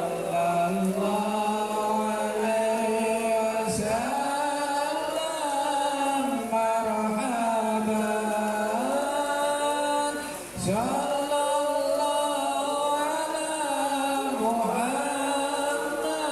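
Sholawat chanted in long, ornamented vocal phrases, with short breaks about 4 and 11 seconds in.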